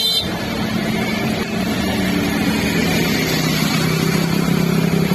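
Vehicle engines running in traffic: a steady low hum over a constant wash of noise.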